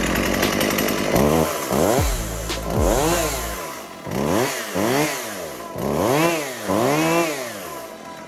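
Husqvarna 142 chainsaw's two-stroke engine running after its repair, revved up and let drop back again and again in short throttle blips.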